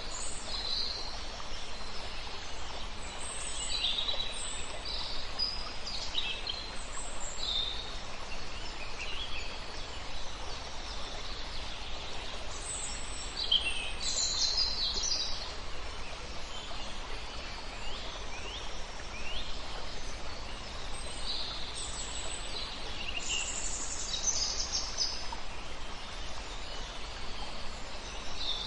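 Several songbirds singing and chirping, with short calls and trills coming one after another, over the steady rush of a river.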